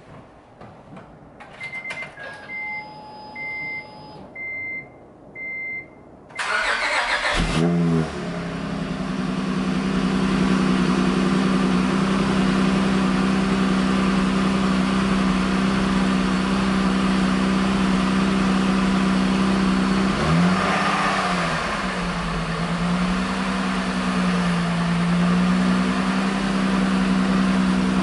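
A few clicks and four dashboard chime beeps, then the 2007 Acura TL Type S's 3.5-litre V6 cranks and catches, flaring up and settling into a steady cold-start fast idle through an exhaust with the mid muffler removed and a Magnaflow resonator in place of the stock one. About two-thirds of the way in the engine revs once briefly, and afterwards the idle settles slightly lower.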